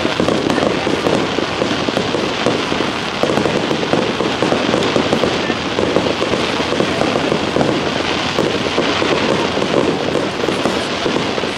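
Aerial fireworks crackling: a dense, continuous patter of many small bursts at a steady level, with no single big bang standing out.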